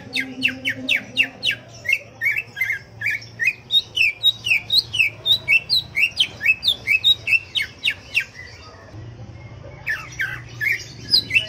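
Cucak ijo (green leafbird) singing in a fast run of short sweeping notes, about four or five a second, breaking off for about two seconds near the end before starting again. This is 'gacor' song, the continuous singing used as a lure to set other cucak ijo singing.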